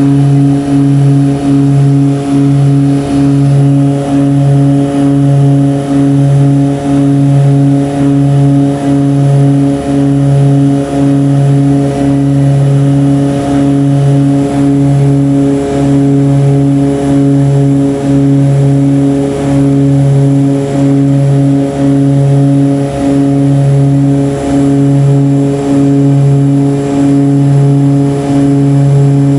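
Propeller airplane's engine drone heard from inside the cabin, steady and loud, with a regular pulsing about once a second.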